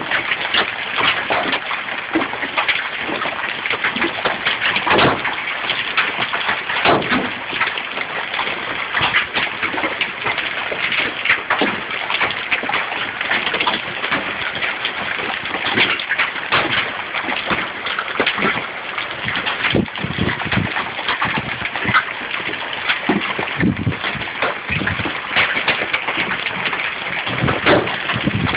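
Large hailstones, some about golf-ball size, pelting down. A dense, unbroken run of impacts over a steady hiss, with louder single hits scattered throughout.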